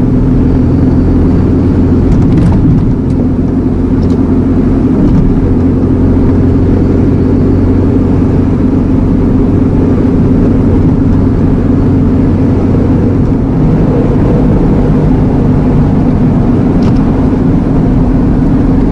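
Iveco Eurocargo lorry's diesel engine running steadily while driving, heard from inside the cab, with a few faint clicks.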